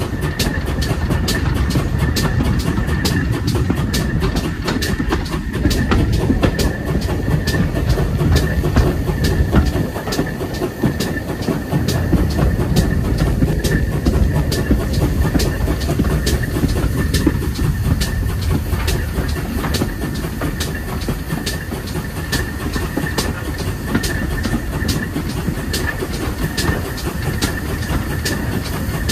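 Steam-hauled train running on the rails: a steady low rumble with evenly spaced sharp clicks and a faint steady high tone.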